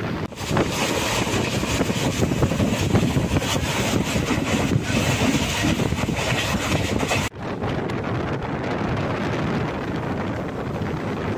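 Passenger express train running at speed, a steady rush of train and wind noise with heavy wind buffeting on the microphone. About seven seconds in it cuts off briefly, and then runs on with less hiss.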